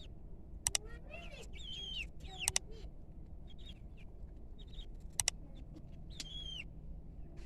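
Local Arab chickens peeping, short high calls that bend in pitch, scattered throughout. There are three pairs of sharp clicks, the loudest sounds.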